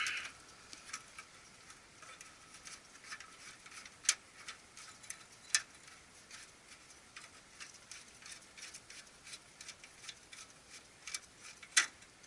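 Faint, irregular small clicks and ticks of a tool unscrewing the screw-type hose clamp that holds the fuel filter to its bracket, with a few sharper metal clicks about four seconds in, about five and a half seconds in, and near the end.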